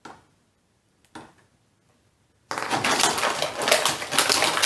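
Plastic blister packaging being handled: two brief light rustles, then about two and a half seconds in a loud, dense run of crinkling and crackling as the plastic tray is worked to free the figure's accessories.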